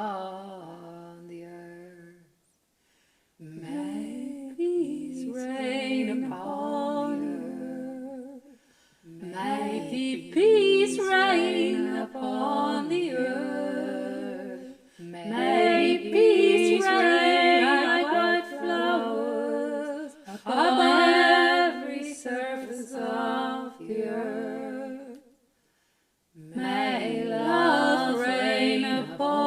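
Female voices singing a slow four-part harmony chant a cappella, in long held notes grouped into phrases, with two short pauses, one a few seconds in and one near the end.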